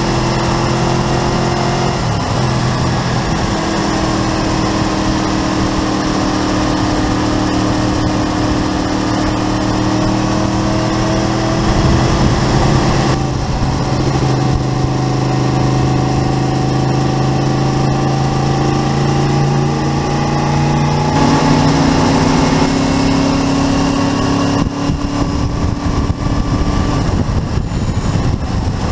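Honda VFR750 RC24's V4 engine pulling on the road. Its note climbs slowly in each gear and jumps at a few gear changes, with a steady rush of wind and road noise.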